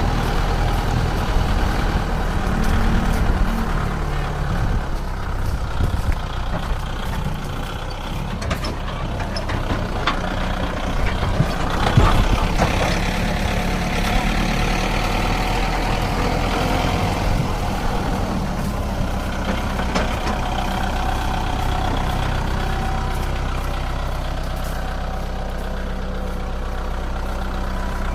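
Kubota MU5501 4WD tractor's diesel engine running steadily while it pulls a loaded trolley, with rattling and one louder knock about twelve seconds in.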